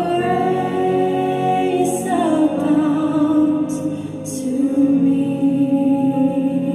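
Slow worship music: a voice holds a long sung note for about two seconds, over a steady sustained accompaniment that carries on through.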